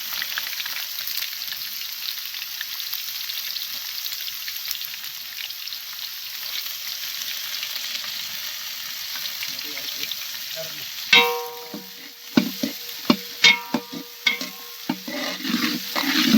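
Chopped onions and green chillies sizzling in hot oil in a pan. From about eleven seconds in, a metal spoon or ladle strikes the pan again and again as they are stirred, with short ringing clanks.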